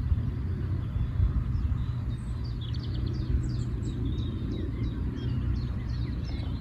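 A small songbird sings a quick run of high chirps and trills from about two seconds in, over a steady low rumble.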